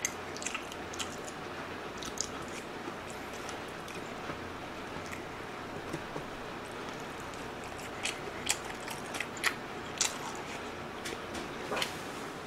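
A person chewing a mouthful of rice and pork close to the microphone, with scattered short wet mouth clicks. The clicks come more often around eight to ten seconds in.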